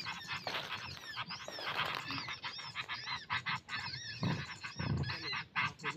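Many small birds chirping rapidly, a dense run of short arching high notes, with two short low sounds a little past the middle.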